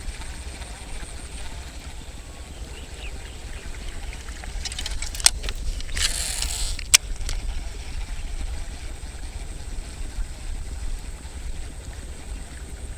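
Strong wind buffeting the microphone as a steady low rumble. About five seconds in there is a sharp click, then a short rushing hiss, then a second click near the seven-second mark.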